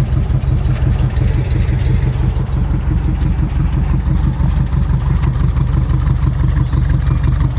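Porsche 356 Speedster tribute car's engine idling steadily, with an even low pulse, shortly after a cold start on a car with no choke.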